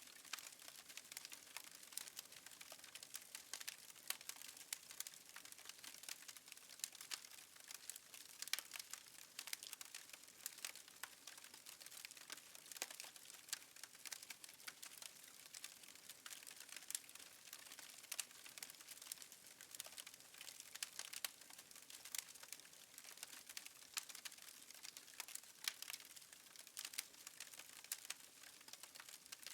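Wood fire crackling faintly, with irregular quick pops and snaps over a soft hiss.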